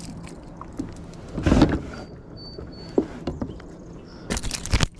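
Close handling noise: scattered knocks and rustling, a loud noisy burst about a second and a half in, and a quick run of clicks and knocks near the end.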